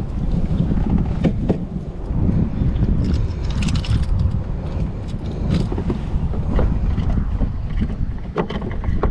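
Wind buffeting the microphone in a heavy low rumble, with a few scattered knocks and a short hiss, several knocks close together near the end.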